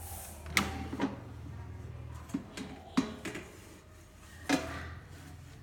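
Handling of a Tefal XL EY401D air fryer: about five sharp clicks and knocks, the loudest near the end, over a steady low hum.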